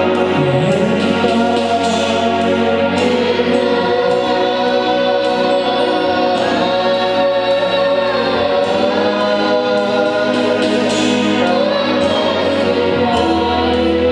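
Gospel worship music: a choir singing with instrumental accompaniment, held bass notes changing every couple of seconds under sustained voices.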